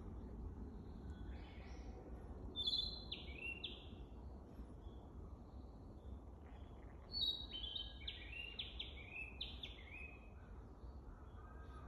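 Narcissus flycatcher singing two phrases of clear whistled notes that step down in pitch, one about a second in and a longer one about seven seconds in. The song is clumsy, a bird still practising its song. A steady low rumble lies underneath.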